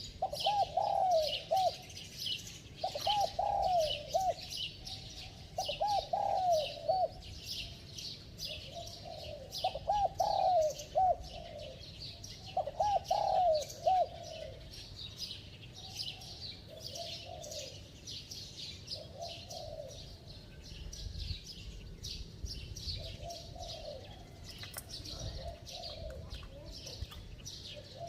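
Spotted dove cooing in repeated phrases, one about every two to three seconds, loud for the first half and fainter after. Many small birds chirp high and continuously over it.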